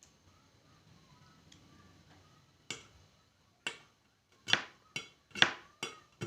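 Eating sounds close to the microphone: after a faint start, a run of sharp, crisp clicks begins about two and a half seconds in. They come about one a second at first, then faster and louder in the second half.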